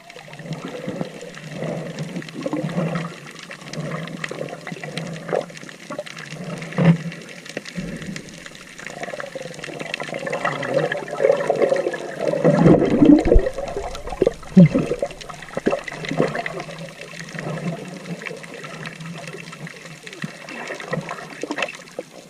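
Seawater splashing and sloshing around people wading, with irregular splashes throughout and a louder stretch of churning water about twelve to fifteen seconds in.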